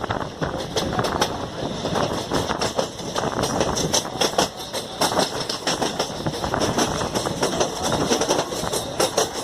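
Passenger train running on the track, heard from on board: a steady rumble with frequent irregular clicks and rattles from the wheels and carriage.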